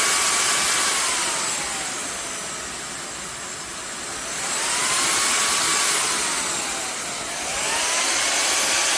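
INTETURE cordless stick vacuum's motor whining as its power level is stepped up and down. The pitch starts high, falls, climbs again about four and a half seconds in, drops once more, then rises near the end.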